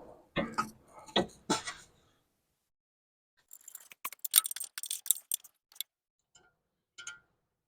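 Hand tools and metal parts being handled: a few knocks in the first two seconds, then a quick run of bright, irregular metallic clicks and clinks a few seconds later, and one or two more clicks near the end.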